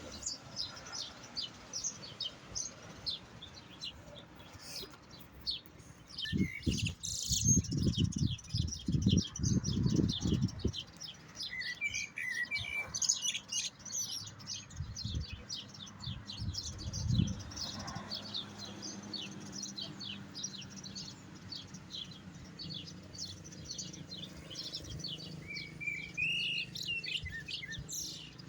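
European goldfinch singing a fast, continuous twittering song of short high notes. A louder low rumble breaks in for a few seconds about a quarter of the way in, and again briefly a little past the middle.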